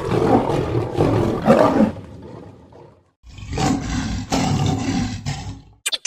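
Big cat roaring in two separate recordings. The first run of roars fades out about three seconds in, and after a brief gap a second roaring recording starts and stops about a second before the end.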